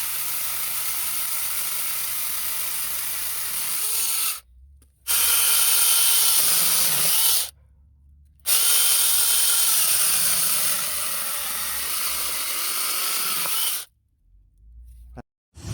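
Nicelyon TPLC-B07 battery chainsaw running with a steady electric whine. It cuts off suddenly three times and starts again.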